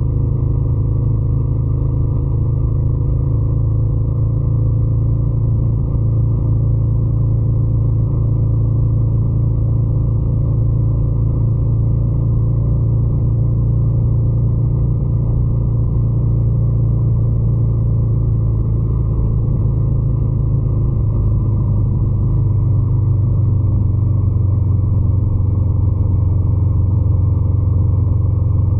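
Ducati Scrambler 800's air-cooled L-twin engine running steadily with a deep, even rumble; about two-thirds of the way in its note drops a little lower and grows slightly louder.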